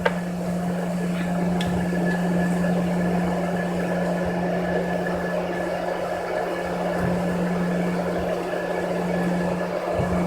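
Steady cabin drone inside an Embraer ERJ-145 regional jet taxiing after landing: a low hum of the engines and cabin air with a thin faint whine above it, and a couple of soft low bumps in the second half.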